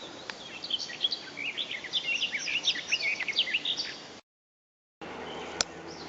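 A songbird singing a fast, rambling run of high chirping notes that breaks off about four seconds in. A single sharp click comes near the end.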